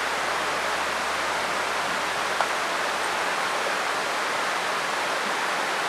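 Steady rush of river water flowing over rocks, an even noise that does not change. A single faint click about two and a half seconds in.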